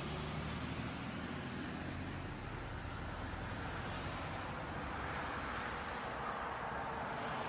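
Steady road and engine noise of a car driving, picked up by a dash camera inside the car, with a low rumble and no impacts.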